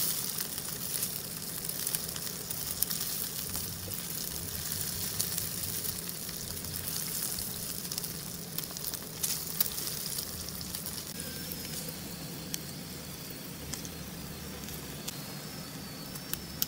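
Marinated paneer strips shallow-frying in coconut oil in a nonstick pan, sizzling steadily. Scattered light clicks come from a wooden spatula turning the strips.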